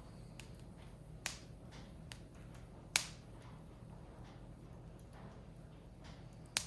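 Firewood burning in a Picogrill fire pit, crackling with sharp pops about a second in, about three seconds in (the loudest), and near the end, with fainter ticks between over a low steady background.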